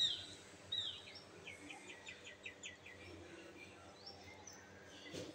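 Birds calling: two sharp falling chirps in the first second, then a quick run of short repeated notes, over a faint steady hum.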